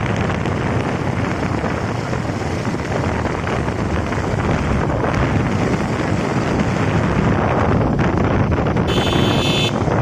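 Steady wind rush on the microphone of a moving bike, with the ride's road noise underneath. A brief high-pitched tone sounds near the end.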